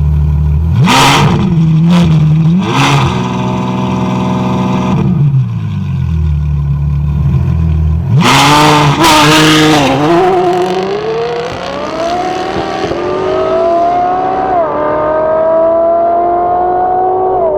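Ferrari F12 Berlinetta's naturally aspirated V12 through a decatted, straight-piped iPE exhaust: three short sharp rev blips, then idling. About eight seconds in it launches hard and accelerates away. The engine pitch climbs through quick upshifts while the sound thins out as the car pulls away.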